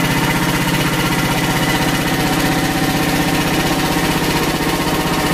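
Frontier OS27 portable bandsaw mill's engine running steadily while its band blade cuts a red oak log. The blade is missing about eight teeth but still cutting well.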